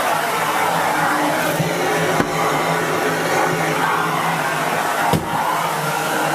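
Miele S8730 (C3 Complete) cylinder vacuum cleaner running steadily on medium power while its floor head is pushed over the floor, with two short knocks, about two and five seconds in.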